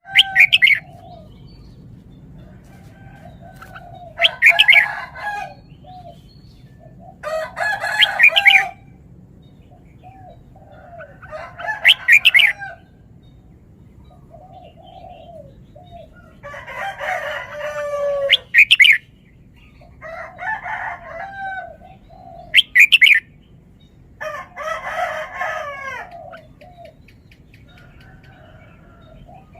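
Red-whiskered bulbul singing short, bright whistled phrases, repeated every few seconds, with a rooster crowing twice in between.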